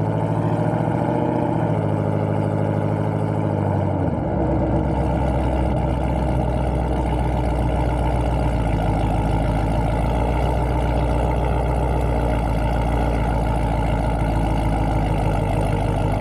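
Car engine idling steadily, its note shifting slightly lower about four seconds in and then holding even.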